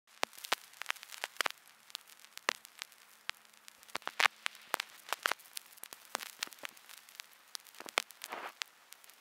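Crackling sound effect: irregular pops and clicks over a faint hiss and a faint steady hum.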